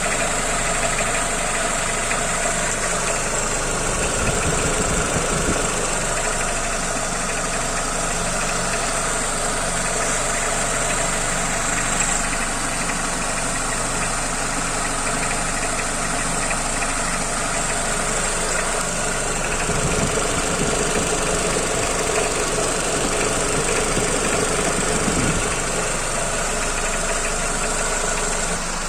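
Car engine idling with a steady knock from the AL4 automatic gearbox's torque converter, whose rivets have worked loose. The knock spreads through the whole engine and is easily mistaken for tapping valves, camshafts or hydraulic lifters.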